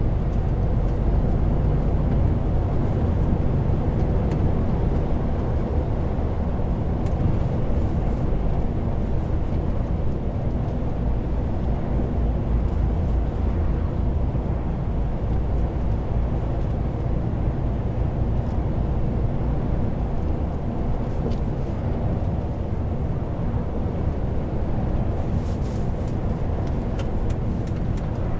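A heavy truck driving steadily, its diesel engine running at an even pitch under a constant low rumble of road noise.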